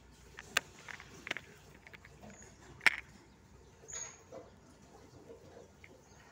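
Toy cars and trucks being handled: a few scattered sharp clicks and knocks, the loudest about three seconds in.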